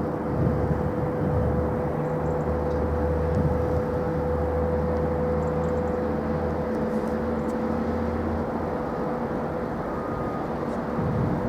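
Steady airport engine noise: a continuous rumble with a constant hum through it. The deepest part of the rumble fades out about eight seconds in.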